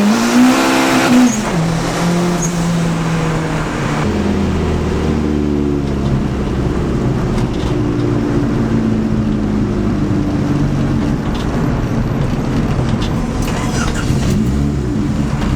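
Turbocharged Honda SOHC D16 four-cylinder engine running under way. It revs up and falls back in the first second or so, settles to a lower steady pitch about four seconds in, and rises and falls again near the end.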